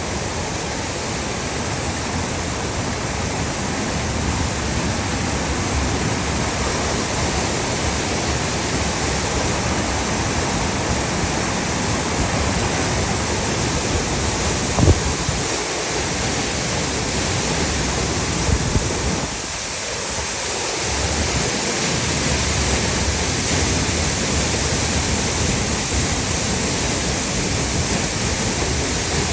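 Steady rushing roar of a waterfall, with a couple of brief knocks about halfway through.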